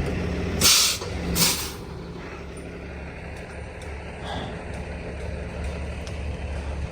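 Two short hisses of air from a heavy truck's air brakes, one after the other, over the steady low hum of its idling engine.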